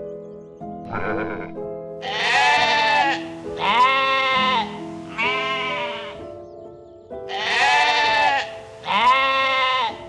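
An animal calling over and over in drawn-out, wavering cries of about a second each, over soft piano music.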